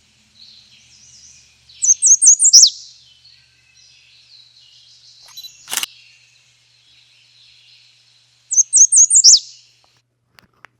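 American redstart singing two songs, each a quick run of four or five high notes ending in an emphatic downslurred note, over faint calls of other birds. A single sharp click sounds midway between the songs.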